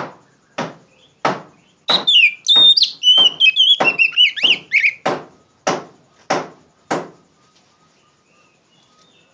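Oriental magpie-robin singing loud, clear whistled phrases for a few seconds. Over it runs a regular series of sharp knocks, about one and a half a second, which stop about 7 seconds in.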